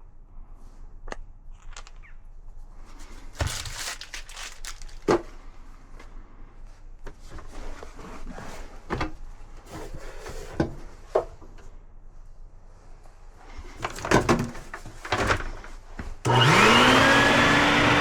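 Scattered knocks and clatters of parts and tools being handled, then near the end an electric motor switches on, winding quickly up to a steady whine with a loud rush of air.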